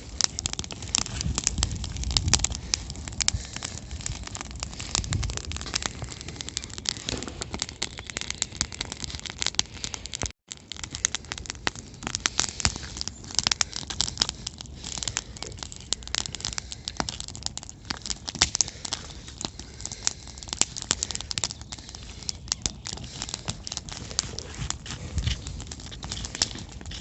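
Campfire crackling steadily, wood popping and snapping in many small sharp clicks.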